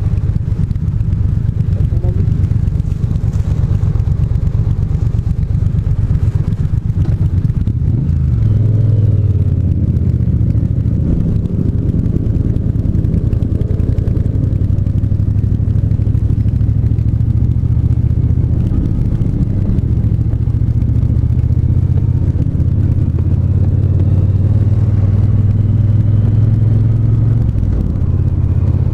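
Triumph 1200 cc parallel-twin motorcycle engine running on the road, low and steady. The engine note rises about eight seconds in as the bike accelerates, then holds at a steady cruise.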